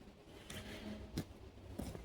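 Footsteps of a person walking on a trail, one step about every two-thirds of a second, faint against outdoor background noise.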